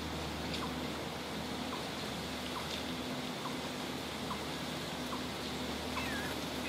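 Steady outdoor hiss with a series of short, faint bird chips about once a second, and a slurred, falling bird call near the end.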